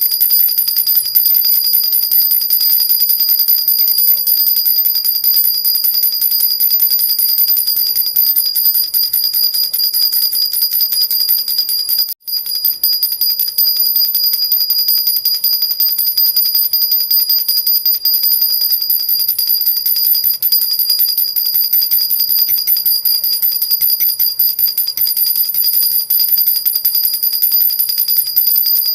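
Metal baby rattle (jhunjhuna) shaken continuously, its little bells jingling in a steady high ringing shimmer. The sound breaks off once, very briefly, partway through.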